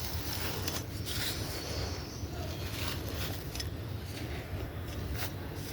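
Dried blocks of dyed sand being crushed and crumbled by hand, a crisp crunching and crackling with sharp snaps every so often, over a steady low hum.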